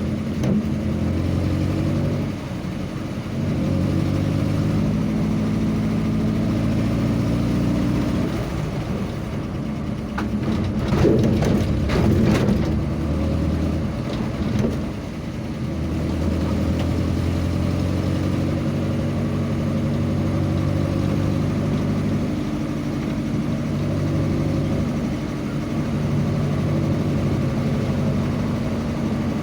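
A road vehicle's engine running while travelling, its pitch stepping up and down with speed, over steady road noise. A louder burst of rushing and clattering noise comes about 10 to 13 seconds in.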